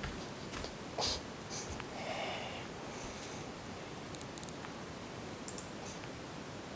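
Faint handling noise: a soft knock about a second in, then light rustling and a few small clicks over a steady hiss.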